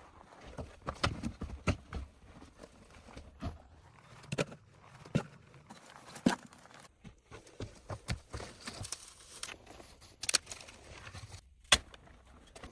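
Irregular sharp knocks and clicks, roughly one or two a second, with the loudest strokes about a second in, around the middle, and near the end.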